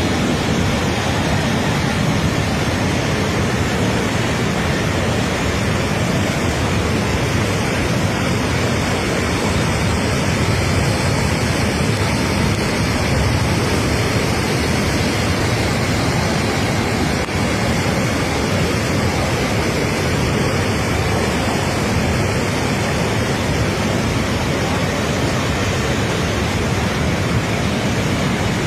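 Steady, unbroken rushing noise of fast-flowing water, with no breaks or changes in level.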